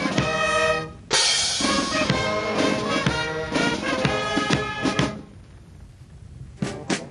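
Brass music with trumpets, trombones and drums, with a short break about five seconds in before it starts again.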